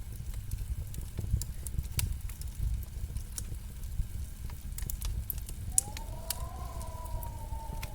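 Wood fire crackling in a fireplace: a steady low rumble with scattered sharp pops and snaps. About three-quarters of the way through, a faint wavering tone joins in.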